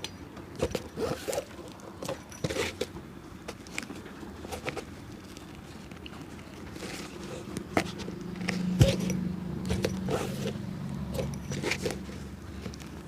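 Short, irregular scrapes and taps of a cobbler's hand work on a shoe. From about seven seconds in, a low engine hum builds, peaks and fades, as from a passing vehicle.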